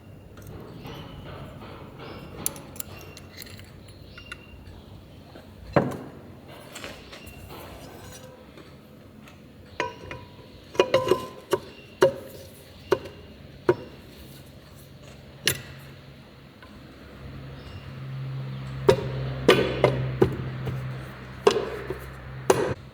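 Metal tools and engine parts clinking and knocking in irregular sharp strikes, some ringing briefly. A low steady hum comes up over the last few seconds.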